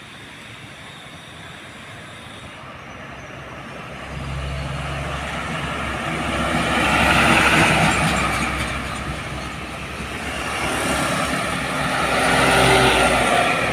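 Heavy trucks passing close on a highway: a low diesel engine drone comes in about four seconds in, with tyre and engine noise swelling to two peaks, around the middle and near the end, as they go by.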